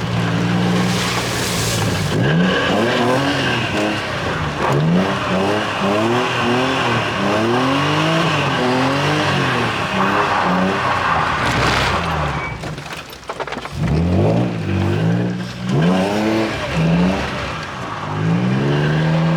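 Car engine revving hard and falling back over and over while drifting, its pitch climbing and dropping roughly once a second, with a short lull past the middle before the revving picks up again.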